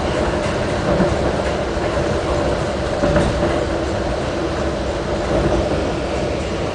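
Metra commuter train running at speed, heard from inside the passenger car: a steady rumble of wheels on rails with a faint hum, and a few sharp clacks as the wheels cross rail joints.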